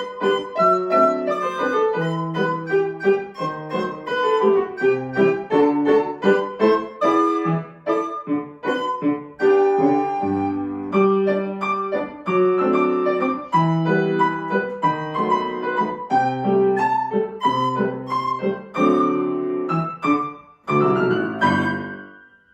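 Solo piano playing a run of quick, short notes, ending with a final sounding that dies away near the end.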